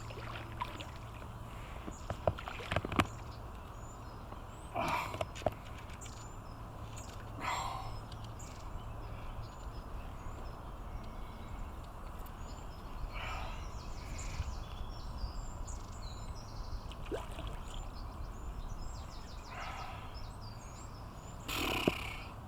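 Outdoor background noise with a steady low rumble, a few sharp knocks about two to three seconds in, and short exclamations from the angler now and then while he plays a big fish.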